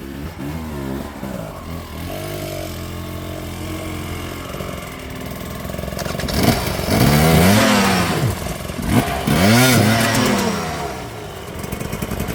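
Dirt bike engine revving in repeated sharp blips of the throttle, getting much louder about halfway through as the bike works up close by, then easing off near the end.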